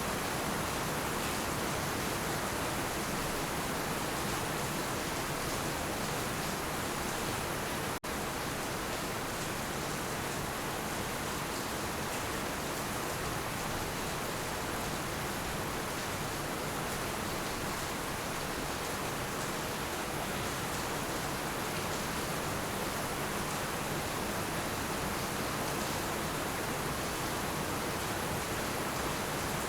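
Heavy rain falling steadily: a dense, even hiss with no thunder, with a momentary drop-out about eight seconds in.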